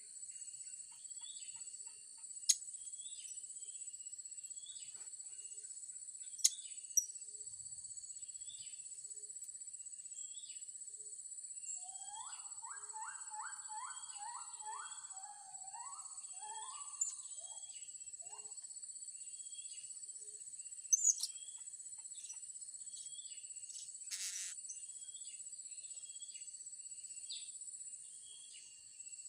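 Blue-crowned hanging parrots giving short, high-pitched chirps about once a second over a steady high insect drone. About halfway through another bird gives a quick run of about ten rising notes, and a few sharp clicks sound.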